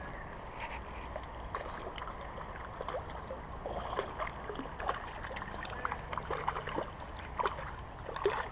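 Creek water running, with many short irregular splashes and clicks as a small crappie is reeled in and landed.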